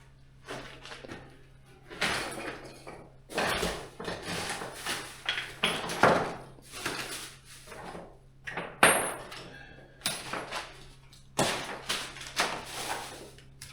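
A run of irregular knocks, bangs and scraping clatters from things being handled and moved during renovation work, the sharpest bangs about six and nine seconds in. A faint steady low hum runs underneath.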